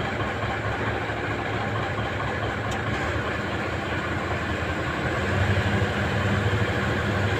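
Engine running steadily after its fuel injectors have been balanced, back to normal power; its low hum grows a little louder from about five seconds in.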